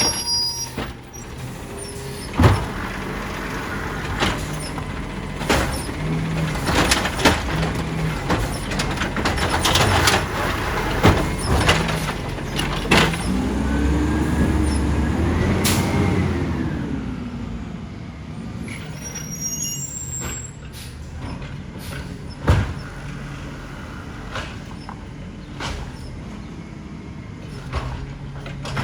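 Side-loader garbage truck working: its diesel engine runs steadily under sharp knocks and bangs scattered throughout, and it revs up and back down about halfway through.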